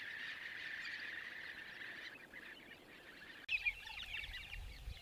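A steady high-pitched outdoor drone. About three and a half seconds in it changes abruptly to a flock of birds giving many short chirping calls.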